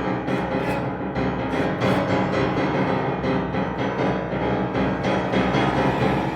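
Violin, cello and piano trio playing a dense, loud contemporary passage, with sharp repeated attacks over sustained low notes.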